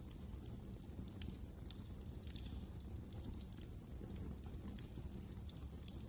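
Wood fire crackling in a fireplace: irregular sharp pops and ticks over a steady low rumble.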